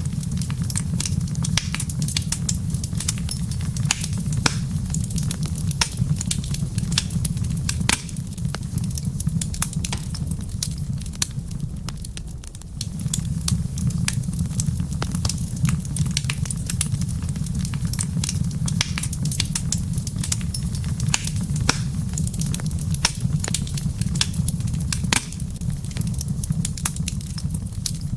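Wood fire in a fireplace crackling, with frequent irregular sharp pops and snaps over a steady low rumble of the burning fire.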